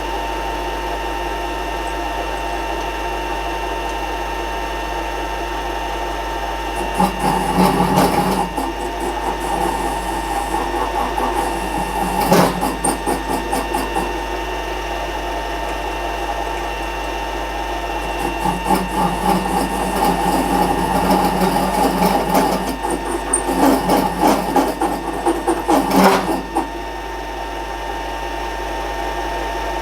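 A workshop machine tool's electric motor runs steadily with a constant whine. Louder, irregular stretches of machining noise come about 7 s in, briefly around 12 s, and again from about 18 to 26 s.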